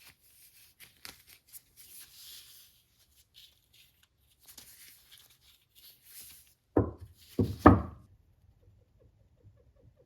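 Rustling and light clicks and knocks, then three heavy thuds in quick succession a little before three-quarters of the way through, the last the loudest.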